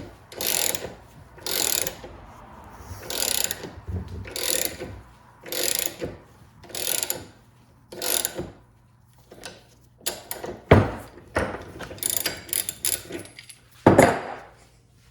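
A ratchet wrench clicking in repeated strokes, about one a second, while a U-joint bearing cap is pushed out of a double cardan driveshaft yoke. Over the last few seconds there are sharper metal clicks and two loud knocks.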